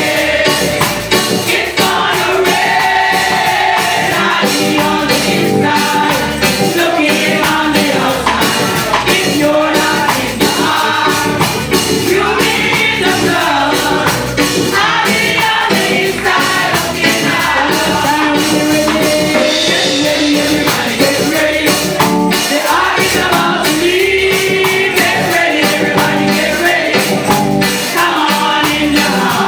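Combined gospel choir singing with a live band, a tambourine and drums keeping a steady beat.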